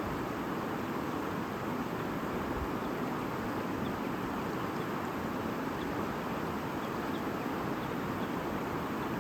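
A shallow stream murmuring steadily over stones.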